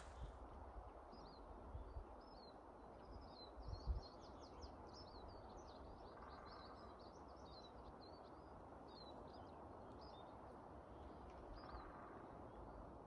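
Faint songbirds chirping and twittering, a quick dense run of high chirps in the first few seconds and scattered calls after, over a low steady rumble, with one low thump about four seconds in.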